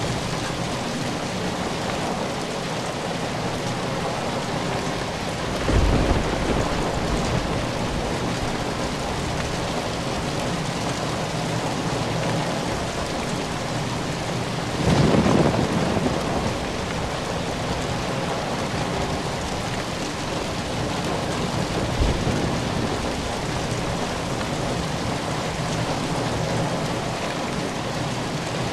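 Steady rain, with louder swells of thunder about six seconds in and, longer, around the middle.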